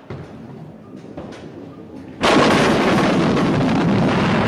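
A bowling ball rolling down a wooden lane, then about two seconds in a sudden, loud crash into the pins that carries on as a steady rush of noise.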